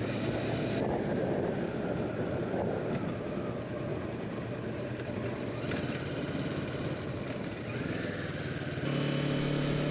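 Motorcycle engine running while riding, with a steady noisy rush; a clearer, steady engine note comes in about nine seconds in.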